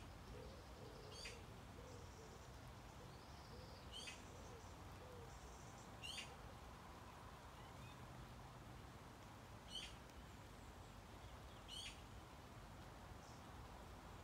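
Faint outdoor quiet with a bird calling, a short, sharp high call repeated about every two to four seconds, over a low steady background hush.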